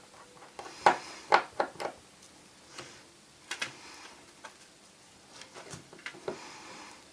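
Small sharp clicks and taps of a screwdriver working screws out of an opened iPhone 4's logic board: a quick run of about five clicks about a second in, a couple more in the middle and one near the end.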